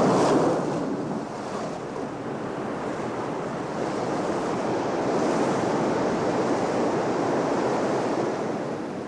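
Heavy ocean surf breaking and surging, with wind. The loudest wave comes right at the start and falls back within about a second, and another swells up about five seconds in.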